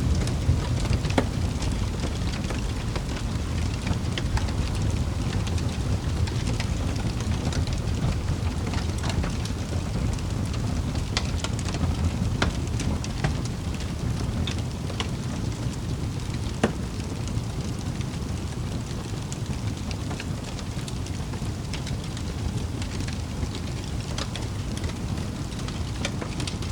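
Wood fire burning in a fireplace: a steady low roar of the flames with scattered crackles and pops, a few sharper snaps in the middle.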